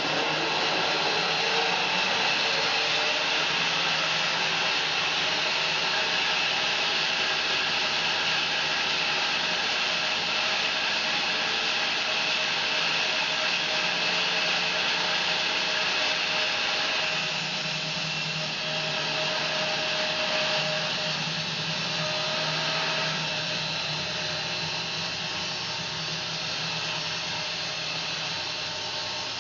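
Home-built bandsaw mill running steadily as it saws a fir log; the sound deepens slightly about two-thirds of the way through.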